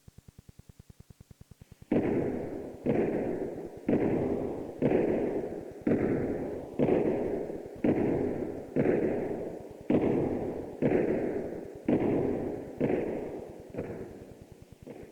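A slow series of about thirteen heavy strikes, evenly spaced about one a second, each ringing out and dying away before the next. It is a Halloween sound effect. A faint fast pulsing is heard before the strikes begin and again after they end.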